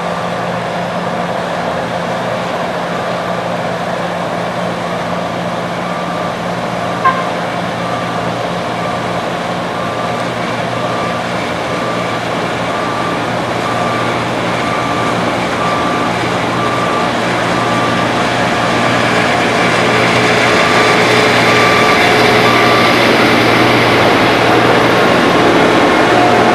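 Heavy road-construction machine's diesel engine running steadily, with a reversing alarm beeping about once a second from a few seconds in until near the end. The engine grows louder in the second half, and there is one sharp click about seven seconds in.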